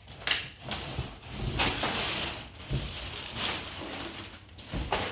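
Packaging being pulled open by hand: rustling and scraping in irregular surges, with a sharp noise about a third of a second in.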